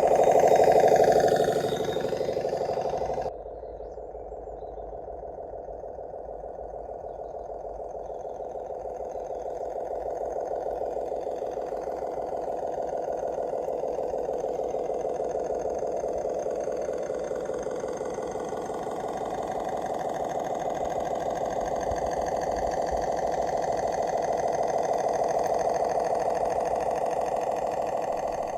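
Diesel engine sound of a model rail bus running steadily with an even chugging pulse. It drops suddenly in level about three seconds in, then slowly grows louder and eases off near the end.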